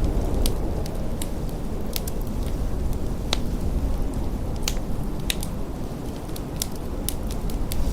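Wood fire crackling, with scattered sharp pops, one somewhat stronger about three seconds in, over a steady low rush of blizzard wind.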